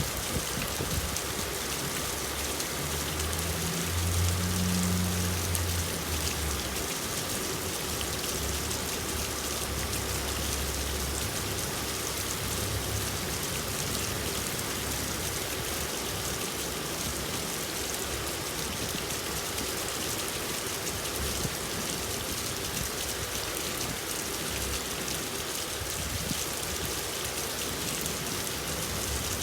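Steady rain falling, an even hiss of drops on a surface. A low rumble rises under it a few seconds in and fades out by about eleven seconds.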